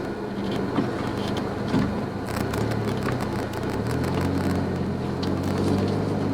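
Suzuki Jimny JB23W's small three-cylinder turbo engine running steadily as the 4x4 drives a rough forest track, with scattered small clicks and knocks from the road surface.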